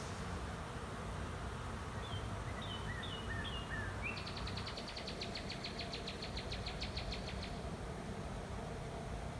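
Steady hum of a honey bee swarm around the hives as the bees fan at the entrances. A songbird sings over it: a few short down-slurred notes, then a fast even trill lasting about three seconds.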